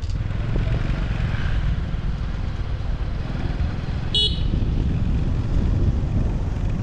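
Steady low rumble of a motorcycle riding through city traffic, with a single short horn beep about four seconds in.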